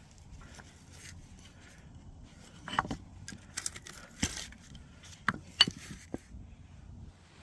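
Axes being handled: a series of sharp metallic clinks and knocks, about six of them in the middle of the stretch, as the axe heads are picked up and set down.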